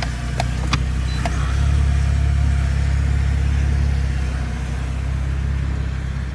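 Low rumble of an Infiniti Q50's engine and road noise heard inside the cabin, swelling for a couple of seconds from about a second and a half in. A few light clicks in the first second.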